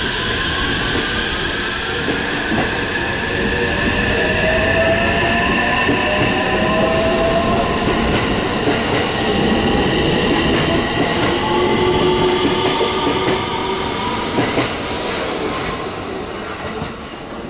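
Electric train running past on the rails: the motor whine climbs slowly in pitch over the wheel rumble and rail-joint clatter, then the sound eases off near the end.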